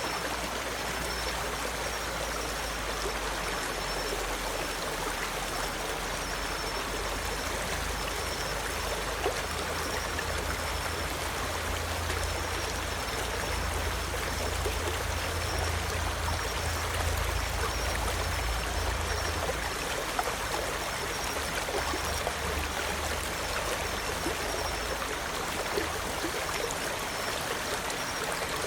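Mountain valley stream flowing steadily, a continuous rush of running and trickling water. A low rumble swells under it in the middle, and a faint high tone repeats throughout.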